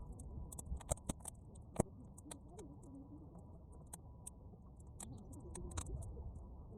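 Bonfire of half-dried weeds crackling, with irregular sharp pops (the loudest a little under two seconds in) over a steady low rumble.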